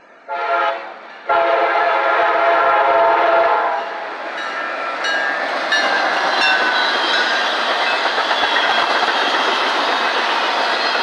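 Diesel freight locomotive horn, CSX EMD GP40-2: a short blast, then a longer blast of about two seconds. Then the locomotive and its train pass close by, its wheels rolling and clicking over the rail joints as the tank cars go past.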